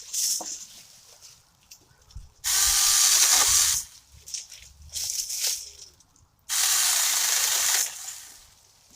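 Saker 20V battery-powered mini chainsaw cutting through branches in two short bursts of about a second and a half each, its small electric motor and chain whining and hissing, with quieter clicks between the cuts.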